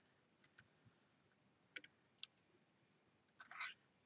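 Near silence with faint high chirping repeating steadily in the background, a few small sharp clicks, and a brief rustle of handling about three and a half seconds in.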